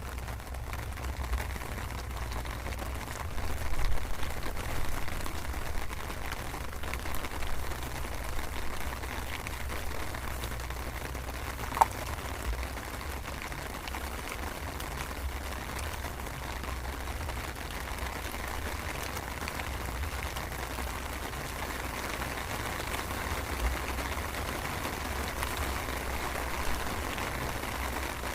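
Light drizzle falling: a steady patter of rain with a low rumble underneath and a single sharp tick about twelve seconds in.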